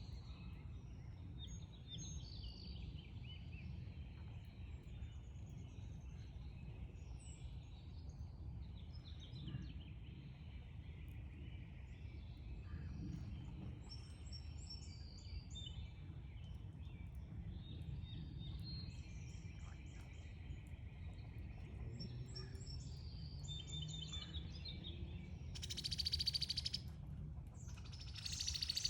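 Several backyard songbirds chirping and calling over a steady low background rumble, with two louder, harsh calls about two seconds apart near the end.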